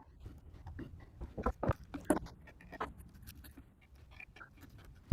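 Scattered light knocks and clicks of objects being handled on a workbench, with a few sharper taps about one and a half to two seconds in.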